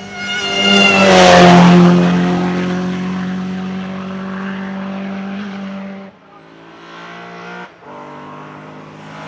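Hill-climb competition car passing close at full throttle, its engine note falling in pitch as it goes by and loudest about a second and a half in. It then pulls away up the hill with two quick gear changes, about six and nearly eight seconds in.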